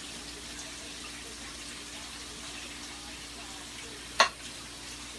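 Steady sizzling hiss from a pot of rice just covered with water on the stove, over a faint steady hum. One sharp knock about four seconds in.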